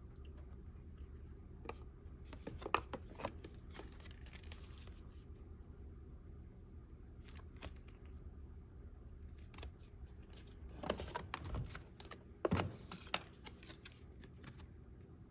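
Packaging and small objects being handled by hand: scattered clicks, taps and brief rustling or scraping, busiest about three seconds in and again around eleven to thirteen seconds in, over a steady low hum.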